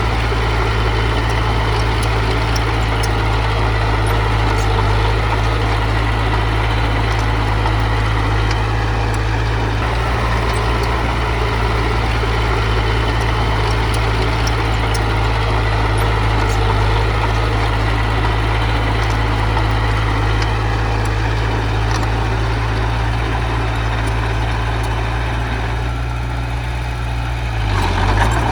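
Diesel engine of heavy earthmoving machinery running steadily, with a deep even drone.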